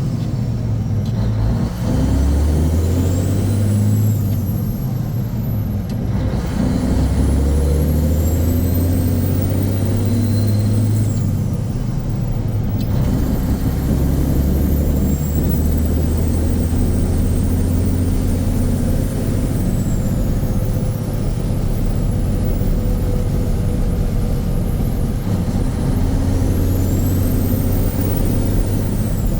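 Mack RS700L's 285 hp turbocharged diesel pulling the truck along under load, a deep steady drone whose note drops and climbs again a few times. Over it, a thin high turbine whistle rises and falls several times.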